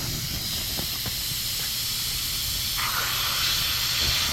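Air hissing steadily out of a puncture in a truck tire's tread; the hiss gets louder about three seconds in.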